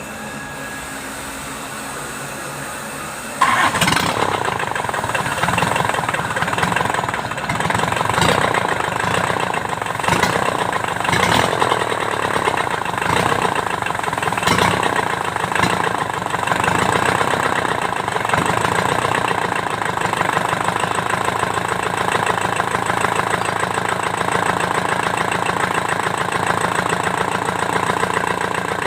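Kubota V1501 four-cylinder diesel engine turning over, then catching suddenly about three and a half seconds in and running on with a steady diesel knock.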